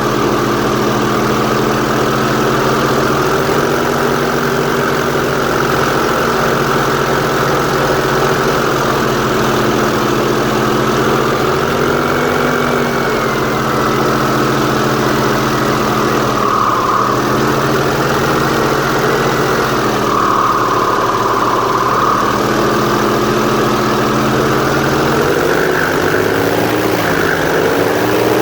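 Airboat engine and large air propeller running steadily, the engine note rising and falling slightly a few times as the throttle shifts.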